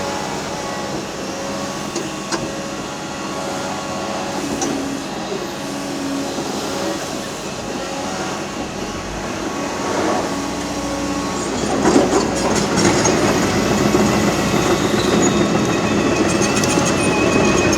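Heavy demolition excavator working: diesel engine and hydraulic whine running steadily, growing louder with a sharp knock about twelve seconds in and rattling, clanking texture after it.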